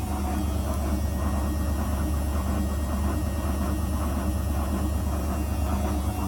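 Zanussi FL984CN washing machine running a 35° wash programme, a steady low motor hum with drum rumble.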